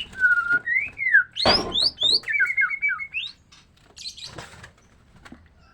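White-rumped shama singing a series of clear whistled phrases that slide up and down, with a loud thump or flutter about a second and a half in. The song stops about three seconds in, followed by a brief rustle.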